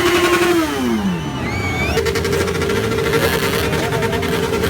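Motorcycle engine revving: held high, then falling in pitch as the throttle closes, then another engine held at a steady rev, with short rising whines near the middle.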